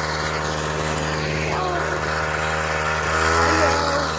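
Small gasoline engine of a ride-on vehicle running steadily, growing a little louder about three seconds in.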